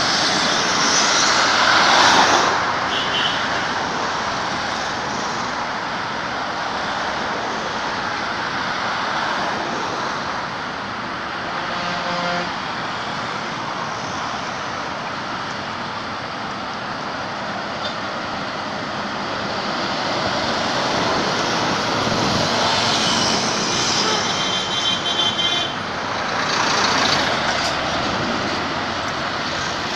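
Road traffic noise: a steady rush of passing vehicles, swelling louder about two seconds in and again for several seconds later on.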